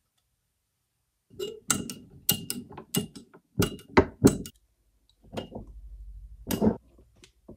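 A series of sharp metallic knocks and clicks of tools and steel parts being handled at a workbench, some with a short ring. After the middle, a low steady rumble runs for about a second and a half, with a few more knocks near the end.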